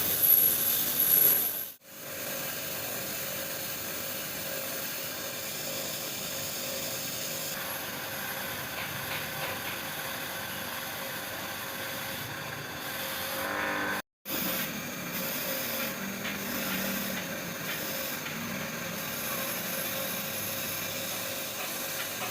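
Steady rubbing and scraping of a tool at work, with the sound dropping out briefly twice.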